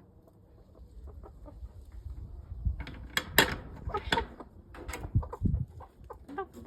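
Backyard chickens clucking, with a run of sharp knocks and clatters from about three seconds in.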